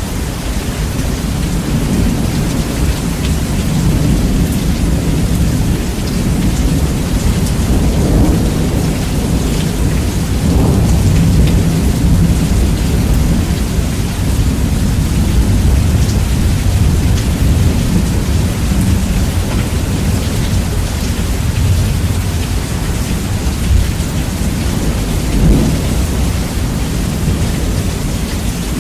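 Steady heavy rain with rumbling thunder, bass-boosted so that the deep low rumble dominates. The rumble swells in places and peaks briefly about 25 seconds in.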